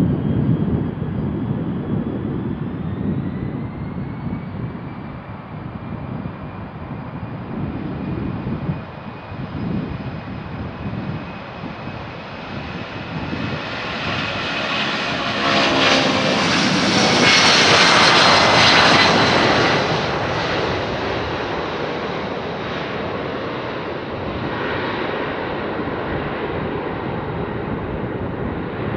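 Boeing 757-200F twin-engine jet freighter taking off. Its engine whine rises in pitch as the engines spool up, and the jet noise builds to its loudest about two-thirds of the way through as the plane passes, then fades away.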